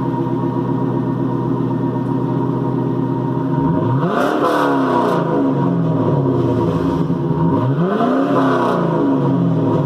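A 2001 Camaro SS's LS1 V8 idles through a Flowmaster cat-back exhaust and is revved twice, about four seconds in and again about eight seconds in. Each rev rises and falls back to idle.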